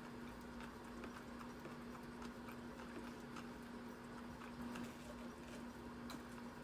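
Faint, irregular wet clicks and chewing sounds of someone eating, over a steady low hum.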